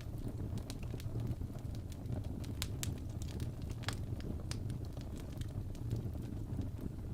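Wood fire burning in a fireplace: a steady low rumble of flames with scattered sharp crackles and pops from the burning logs, the loudest about two and a half and four seconds in.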